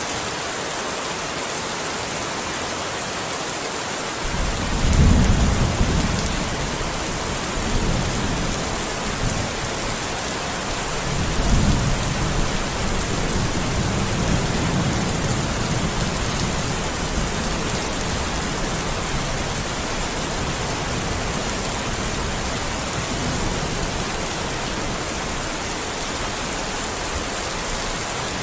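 Steady heavy rain hissing. About four seconds in, a deep rumble of thunder starts and swells twice, then keeps rumbling softly under the rain.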